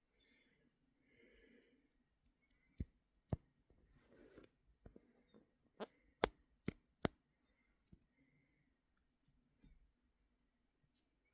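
A quiet room with a handful of sharp, short clicks, about six of them, falling between about three and seven seconds in.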